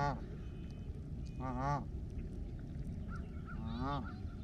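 Geese honking: three short, wavering honks, one just at the start, one about a second and a half in and one near the end, over faint background noise and small bird chirps.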